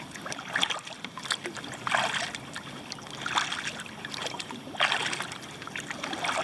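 Kayak paddle strokes in calm water, a splashing swish about every second and a half.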